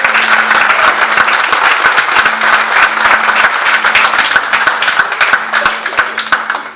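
A congregation clapping and applauding loudly after a worship song, with one low note held steadily underneath. The clapping stops abruptly at the end.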